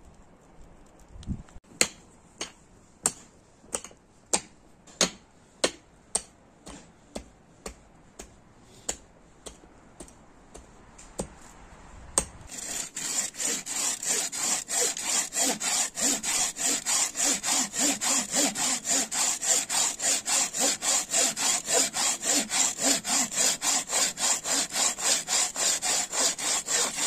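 Hand saw cutting wood: slow, separate strokes for the first twelve seconds or so, then fast, steady sawing of about four strokes a second that is louder.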